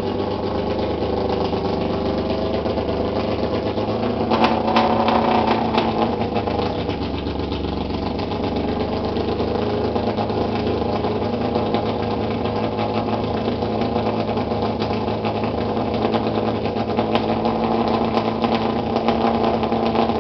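BMW E46 M3 race car engine idling steadily, with a brief swell and a few sharp clicks about four to five seconds in.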